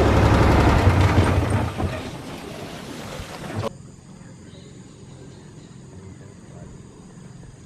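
Boat motor running steadily, then dying down about two seconds in. After a cut it gives way to a quiet, steady background with faint high insect-like tones.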